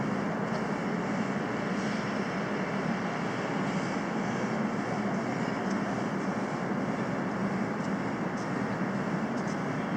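Steady road and engine noise of a moving car heard from inside, an even rush with a low hum underneath.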